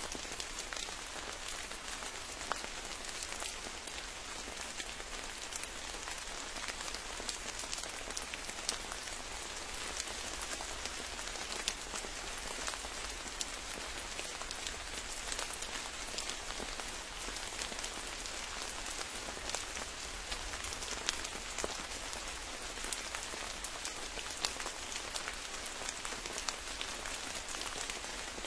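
Steady rain falling, with many individual drops ticking sharply at irregular moments through the even hiss.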